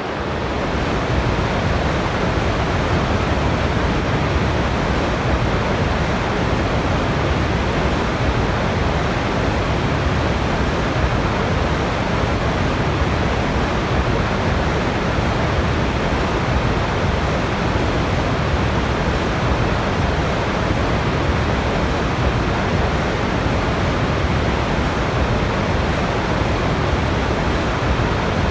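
Waterfall: falling water rushing in a dense, unbroken noise with most of its weight in the low and middle range, dipping briefly at the very start and then holding steady.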